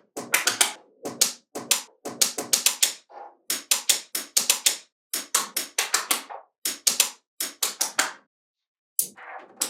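Small magnetic balls clicking and snapping against one another in quick runs of sharp clicks, several runs a second, with a pause of about a second near the end.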